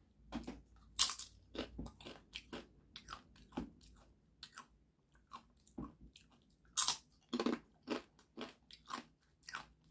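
Crunching and chewing of tortilla chips dipped in salsa: a run of irregular sharp crunches, the loudest about a second in and again near seven seconds.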